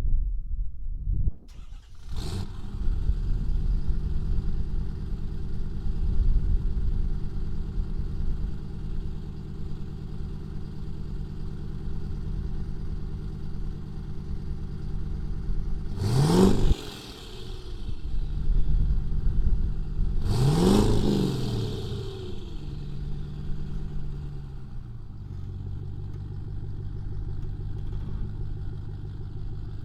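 Ford F250's 6.7-litre Power Stroke V8 turbo diesel starting about two seconds in and settling into a steady idle. Around the middle it is revved twice, a few seconds apart, each rev rising and falling quickly before it drops back to idle.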